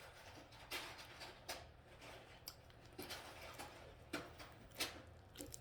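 Faint, irregular wet clicks of a person biting and chewing a soft meat snack stick.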